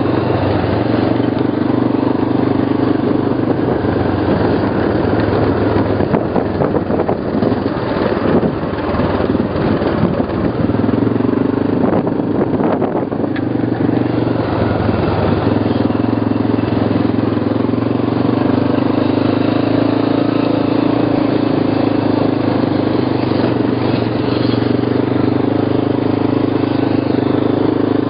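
ATV (quad bike) engine running at a fairly steady speed. The sound turns rougher and less even for several seconds in the middle, then settles back.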